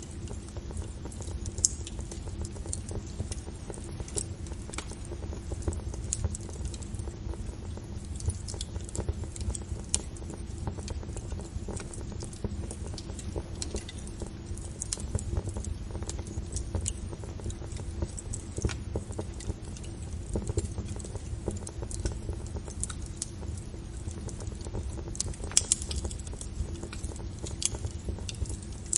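Wood fire crackling steadily, with a low rumble under many small irregular pops and snaps; a couple of louder pops, one about a second and a half in and one near the end.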